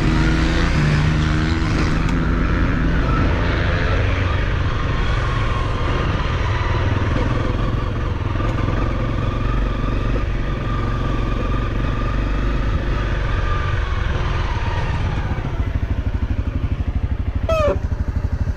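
Off-road motorcycle engine running steadily while riding, with a brief sharp change in pitch near the end.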